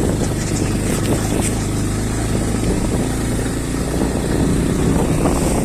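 Motorcycle engine running while the bike rides over a rough dirt track, with irregular rattles and knocks from the bumps.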